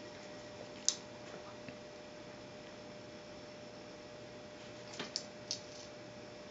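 A quiet room with a faint steady hum, broken by a few soft clicks: one about a second in, and a small cluster around five seconds in.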